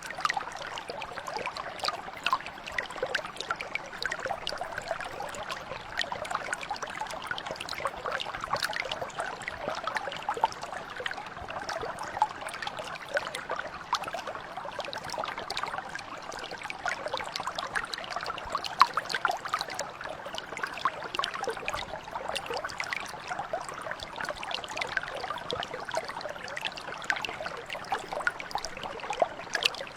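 Small mountain brook flowing steadily, water trickling and splashing over stones in a dense patter of small bright drops.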